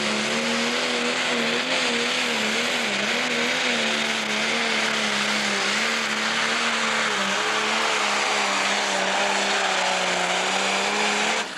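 Pro stock pulling tractor's diesel engine running at full power down the track, a loud steady drone whose pitch wavers slightly under load. It stops abruptly near the end.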